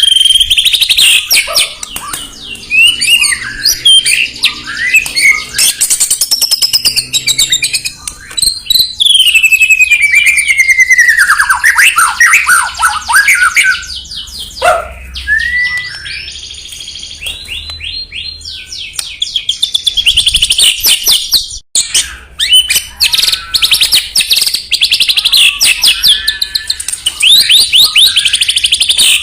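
White-rumped shama (murai batu) singing a loud, varied song of clear whistled phrases, long falling glides and fast rattling trills, with a brief break a little past the middle.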